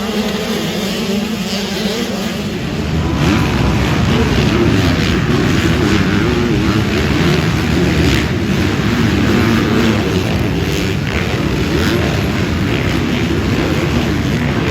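Motocross bike engines revving and running hard, steady at first and getting louder about three seconds in, with the pitch wavering as the riders work the throttle.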